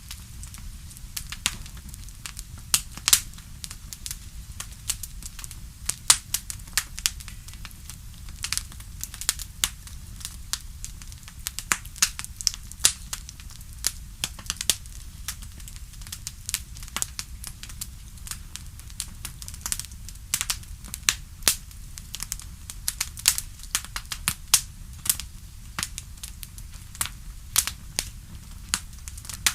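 Wood fire crackling: a steady low rumble of burning with irregular sharp pops and snaps, several a second.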